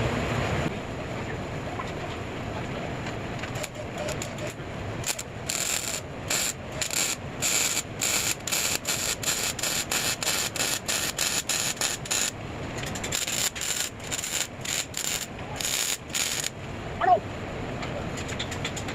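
Arc welder crackling in many short bursts, stitch-welding holes shut in a car's exhaust pipe. A brief sharp sound near the end.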